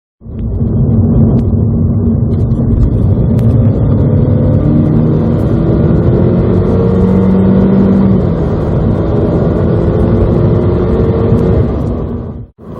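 Honda Civic FK7's 1.5-litre turbocharged inline-four (L15C) with CVT under full-throttle acceleration, the engine note rising slowly and steadily as speed builds. The sound cuts in abruptly at the start and breaks off near the end.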